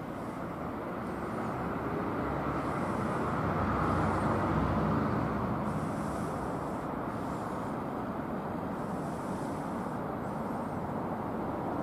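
E653 series electric train running in toward the station: a broad rumble of wheels and motors that swells, is loudest about four to five seconds in, then holds steady.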